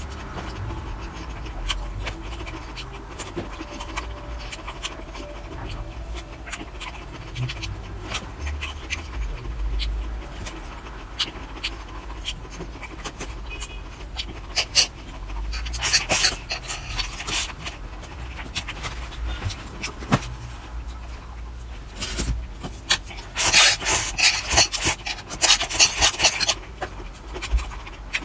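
Close-miked eating: chewing and mouth noises with small clicks and rasping sounds, growing louder and noisier about sixteen seconds in and again for a few seconds near the end.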